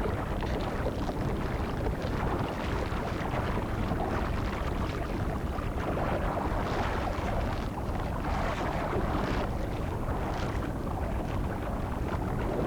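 Seawater sloshing and washing in the shallows, a steady wash with brief splashes now and then.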